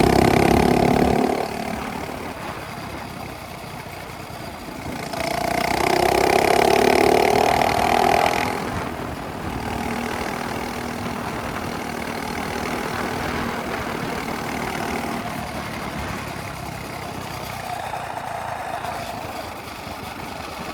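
Minibike engine with a straight-pipe exhaust, revving and easing off. It is loud at first and drops after about a second, rises again about five seconds in for a few seconds, then runs steadily at a lower pitch.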